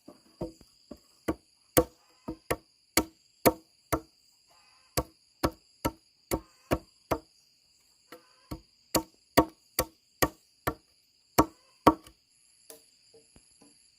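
Repeated sharp blows of a hand tool striking something, about two a second in uneven runs with short pauses, over the steady buzz of insects.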